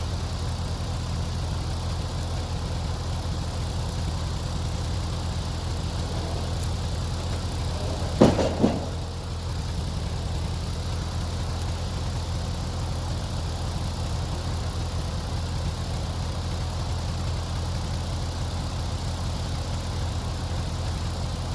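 Engine idling steadily with a low, even rumble, with two sharp knocks a fraction of a second apart about eight seconds in.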